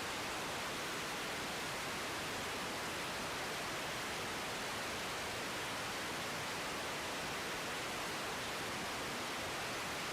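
Steady, even static hiss from the air-traffic-control radio feed between transmissions, with no voice or aircraft sound in it.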